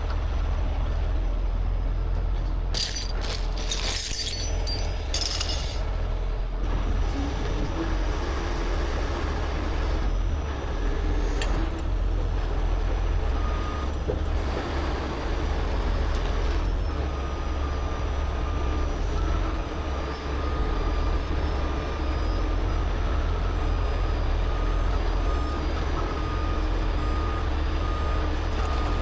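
Heavy rotator tow truck's engine running steadily under load while the boom works, with a few short hissing bursts a few seconds in and a steady high tone joining from about halfway.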